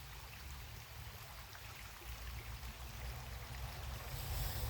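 Creek water running steadily, a little louder near the end.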